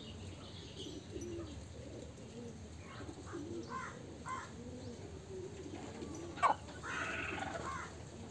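Low, repeated cooing bird calls, with a few short higher chirps and a brief sharp sound about six and a half seconds in.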